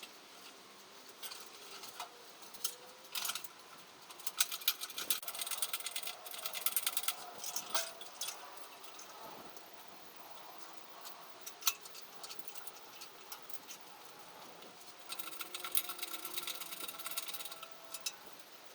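Metal tools and engine parts clinking and rattling, with two runs of rapid clicking, one a few seconds in and one near the end, and scattered single clicks between.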